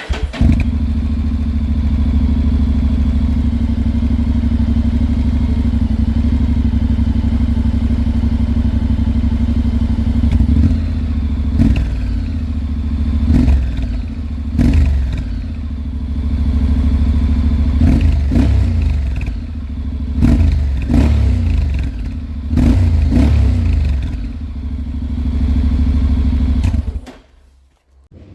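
Honda Integra motorcycle's parallel-twin engine running through a LeoVince aftermarket exhaust: steady idle at first, then a series of short throttle blips, the revs falling back after each. Near the end the engine cuts off.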